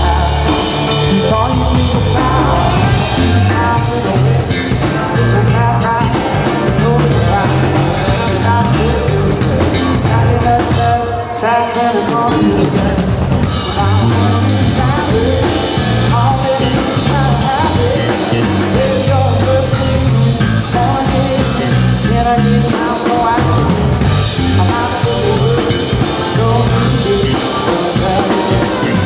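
Live rock band playing a song, with drum kit and a singing lead line over a steady beat.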